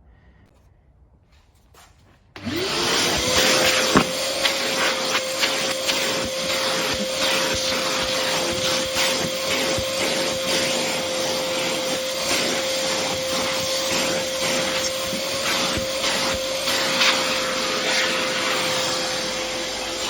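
Workshop vacuum switched on about two seconds in, its motor spinning up quickly to a steady whine and running, sucking up fibreglass dust.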